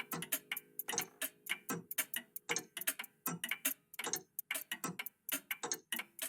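Several old mechanical clocks, cuckoo and antique pendulum clocks, ticking together in uneven overlapping rhythms, about five or six ticks a second. A held tone dies away in the first half second.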